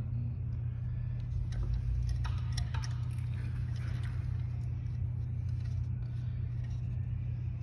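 Light metallic clicks and clinks of engine parts being handled as the clutch cover comes off a motorcycle engine, scattered a few times, over a steady low hum.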